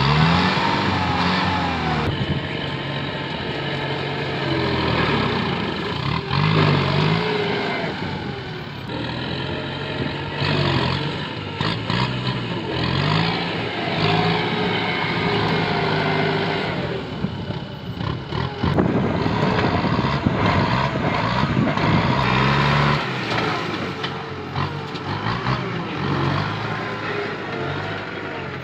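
Kubota M8540 tractor's diesel engine working hard under load, its pitch rising and falling repeatedly as it pushes through vegetation, with occasional sharp cracks.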